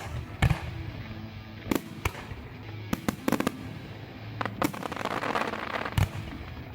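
Fireworks display: about ten sharp shell bursts in quick irregular succession, with a stretch of crackling about five seconds in and a last loud bang at six seconds, over background music.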